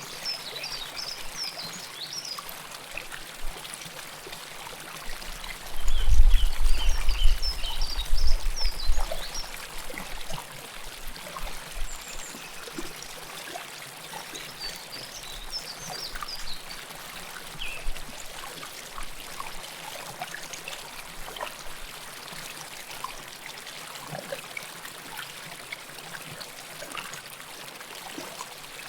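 River water flowing close up: a steady rush with trickling. A deep low rumble comes in about six seconds in and lasts about three seconds, and a few short high chirps sound over the water in the first half.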